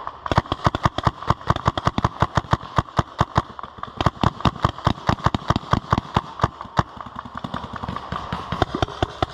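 Paintball marker firing in rapid succession, about seven shots a second, with a brief break near the middle.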